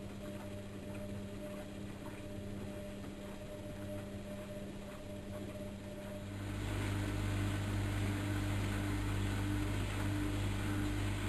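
Bauknecht WAK7760 front-loading washing machine running a coloureds 40 °C wash, a steady hum with light ticks. About six and a half seconds in, a louder low hum and a rushing hiss start up and hold steady.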